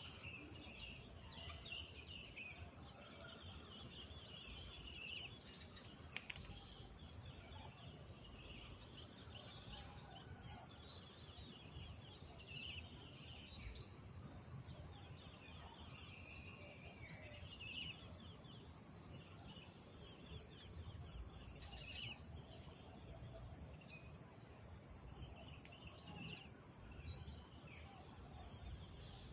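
Faint village morning ambience: small birds chirping and twittering on and off over a steady high insect drone and a low background rumble, with one short click about six seconds in.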